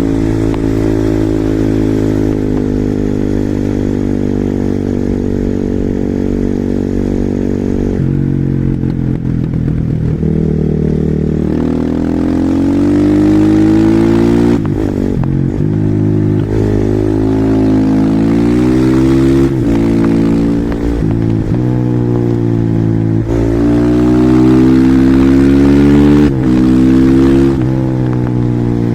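Husqvarna SMR 450 supermoto's carbureted single-cylinder four-stroke engine under hard acceleration, its pitch climbing through the revs and then dropping abruptly several times as the rider shifts or rolls off the throttle.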